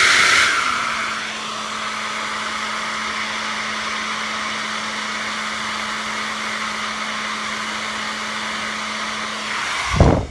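Handheld hair dryer blowing steadily, loudest for about the first second, then settling to an even rush with a faint steady hum. It swells briefly just before it stops near the end.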